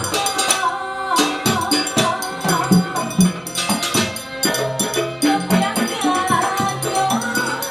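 Gandrung music from Banyuwangi played live by a small ensemble: a wavering melody over regular drum beats and jingling, rattling percussion.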